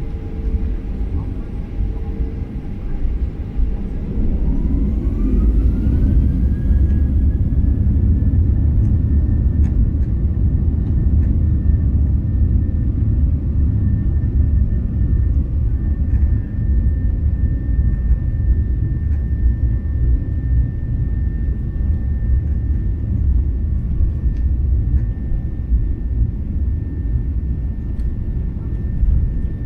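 Boeing 737-800's CFM56 engines spooling up, heard from inside the cabin: a whine rises in pitch about four seconds in, then holds steady over a loud, even rumble as the airliner makes its takeoff roll.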